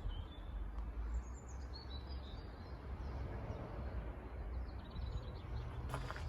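Wind rumbling on the microphone, with small birds chirping faintly in the background and a brief rustle near the end.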